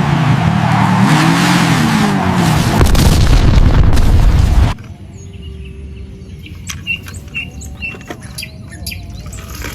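A vehicle engine revving, its pitch rising and falling under a loud rushing noise, cuts off suddenly a little under five seconds in. After that comes a much quieter background with a few short bird chirps and small clicks.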